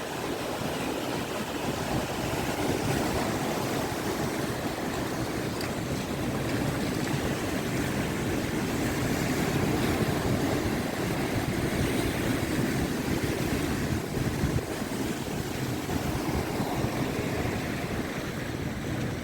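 Rough monsoon sea: surf breaking and washing in a continuous rush, with wind on the microphone, swelling a little toward the middle.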